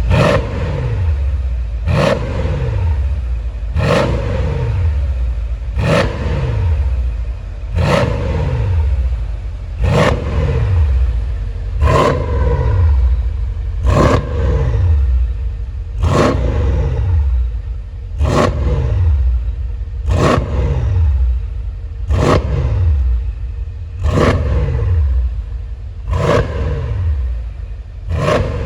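Mercedes-Benz S63 AMG's V8 through an aftermarket valved dual exhaust, free-revved in quick blips about every two seconds, each rev dropping back down in pitch toward idle.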